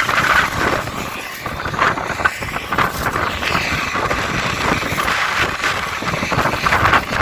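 Strong gusty wind blowing over the microphone, a rushing noise that swells and eases with low buffeting rumbles.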